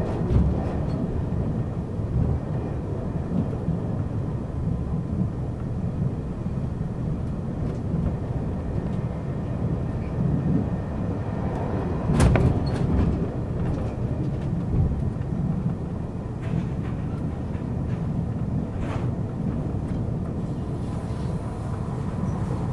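Steady low rumble of a moving passenger train, heard from inside the carriage, with a few short knocks, the loudest about twelve seconds in.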